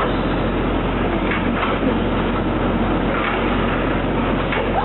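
Electric RC stock trucks with 17.5-turn brushless motors running laps on a carpet oval: a steady whine of motors and drivetrains mixed with tire noise.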